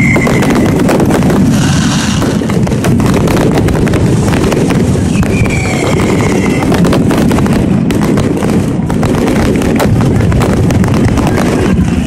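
Fireworks display at close range: a dense, continuous barrage of bangs and crackling from aerial shells and ground-level fireworks. A short falling whistle comes about five and a half seconds in.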